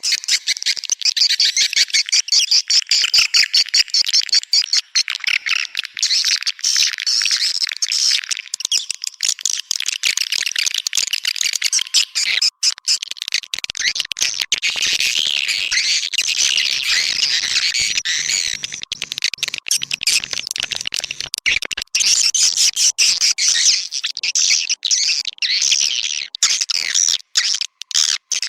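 Swiftlet calls: a dense, continuous chorus of rapid high twittering, buzzy chirps and clicks. It is a swiftlet call-lure recording, the kind played at a bird house to draw swiftlets in to roost and nest.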